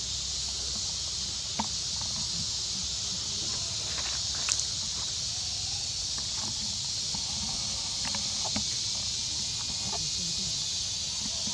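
A steady high-pitched hiss with a low rumble beneath it, broken by scattered small clicks and knocks, one sharper click about halfway through.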